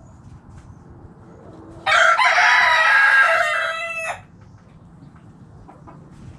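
A rooster crowing once, a single loud cock-a-doodle-doo about two seconds long, starting about two seconds in and trailing off at the end.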